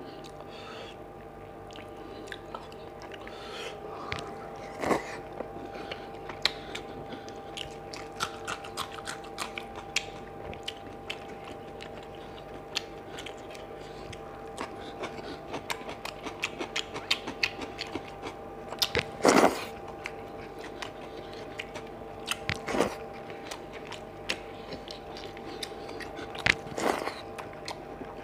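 Close-up eating sounds: wet chewing and lip-smacking of curry-soaked rice and fish eaten by hand, with a few louder crunchy bites of raw cucumber, the loudest a little past the middle. A faint steady hum runs underneath.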